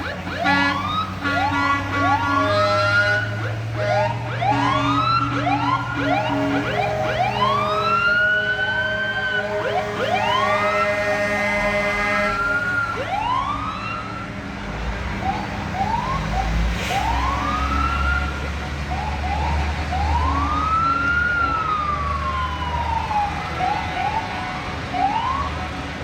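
Several sirens on parade vehicles sounding together, overlapping short rising-and-falling wails, over steady held horn tones that stop about halfway through. A heavy vehicle's low engine rumble swells past in the second half.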